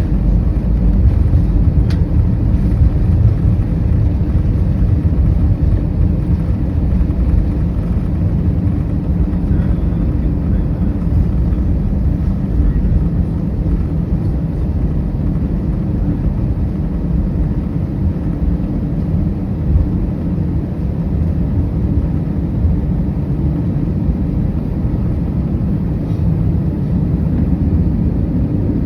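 Steady low rumble inside an Airbus A319 cabin as the jet taxis to the gate with its engines at idle.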